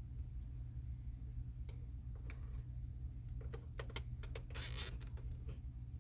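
Hands working on flexible ductwork make scattered light clicks and taps, then a short, loud crinkly rustle about four and a half seconds in, over a steady low hum.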